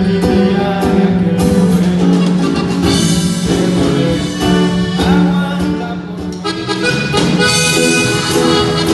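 Norteño band playing live, with an accordion carrying the melody over a steady bass line.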